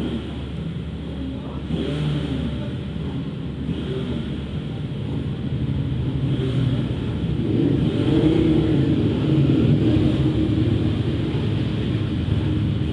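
Vehicle engine running hard on a race circuit, its pitch rising and falling as it revs, over a steady rush of wind and road noise. It grows louder toward the middle.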